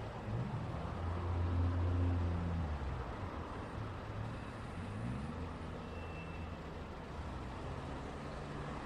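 Road traffic: vehicle engines running and pulling away over a steady hiss of tyres, their pitch rising near the start and again about five seconds in, loudest as one passes about two seconds in.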